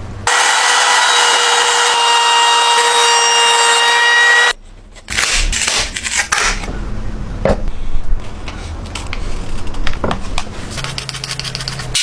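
A power tool working wood: it runs loudly with a steady whine for about four seconds, then cuts off suddenly. Scattered knocks and clicks of wood and tools being handled follow.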